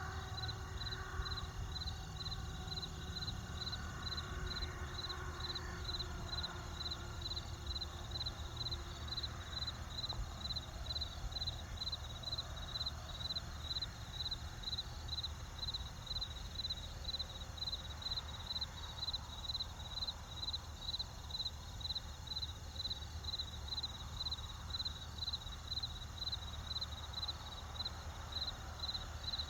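Crickets chirping in a steady, even rhythm, about two chirps a second, over a low steady rumble.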